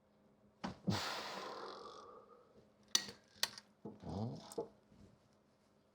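Sharp metallic knocks and clicks of a hand tool working on the bolts that hold the gearbox to the engine. After the first knocks comes a hiss that fades over about a second and a half, and a few more clicks follow.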